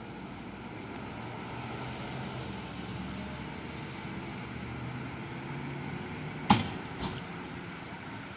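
2020 Pierce Quantum fire engine's diesel engine running steadily at low speed. A sharp, short snap comes about six and a half seconds in, with a smaller one just after.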